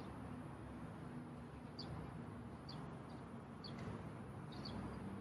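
Faint outdoor background: a small bird chirping briefly about once a second over a low steady rumble.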